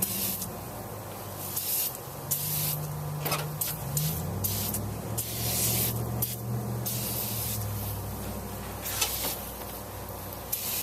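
Aerosol can of tire foam being sprayed onto an engine in a series of short hissing bursts, about eight or nine, the longest lasting nearly a second near the middle.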